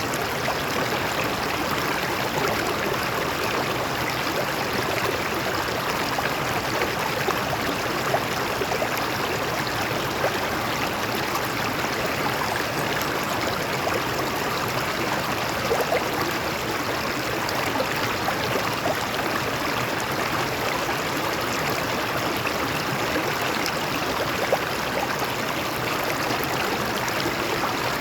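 Stream water flowing over rocks: a steady, unbroken rush and babble of running water.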